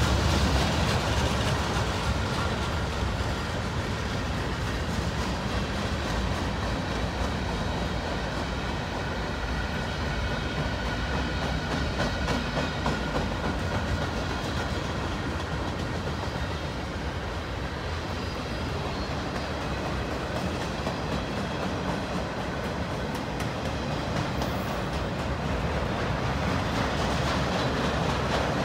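Freight cars of a long mixed manifest train rolling past at steady speed. Steel wheels rumble, rattle and click continuously on the rails.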